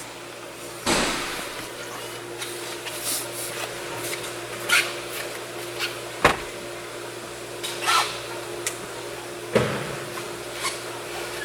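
Hand work on a Hyundai Equus front seat's headrest and seat-back trim: scattered knocks and plastic clicks, about five or six, over a steady faint hum.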